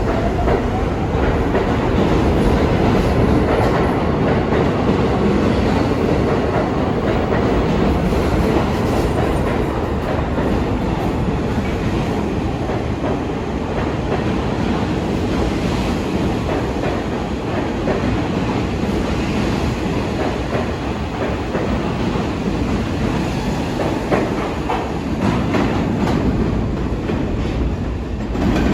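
New York City subway train running through a tunnel station: a loud, steady rumble with wheels clattering over rail joints. A rising motor whine in the first second shows the train picking up speed.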